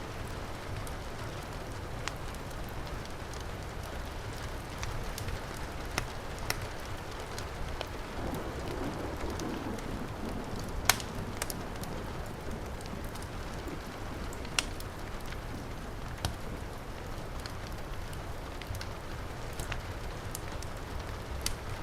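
Steady heavy rain mixed with a crackling fireplace fire, with scattered sharp pops; the loudest pop comes about halfway through.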